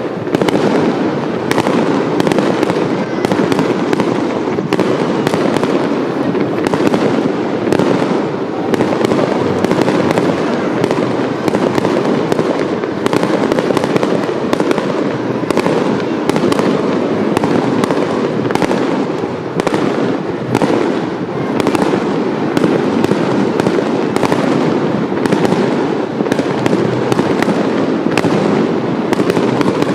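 Fireworks display: a dense, continuous barrage of aerial shell bursts, the bangs coming many a second and overlapping without a break.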